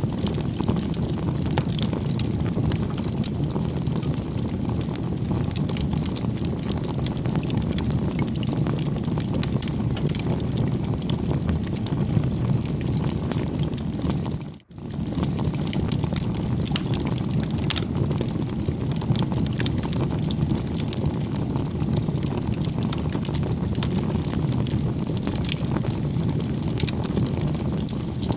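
Campfire burning: a steady low rush of flames with frequent small crackles and pops from the burning wood. The sound cuts out for a split second about halfway, then carries on as before.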